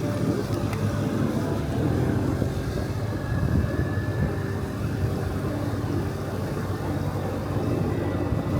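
An engine running steadily: a low, even hum with a level pitch throughout.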